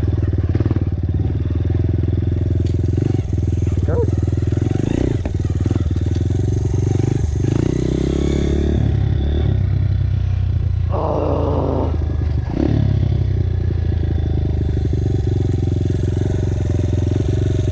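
Dirt bike engine running steadily while riding, with a brief change in its note about eleven seconds in.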